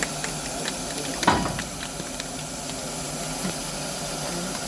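Steam hissing steadily from the Mt Lyell No. 3 steam locomotive, with scattered small clicks and one loud clank a little over a second in.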